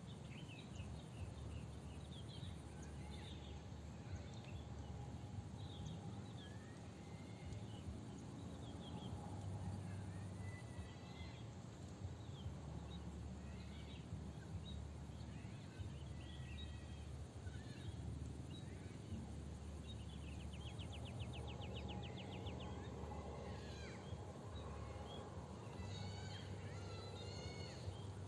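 Wild birds chirping and calling in short, gliding notes, with a fast trill about two-thirds of the way through, over a steady low rumble.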